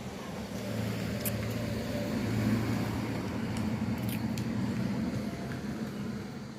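A motor vehicle passing on the road: its engine and tyre noise grow to a peak about two and a half seconds in, then slowly fade away.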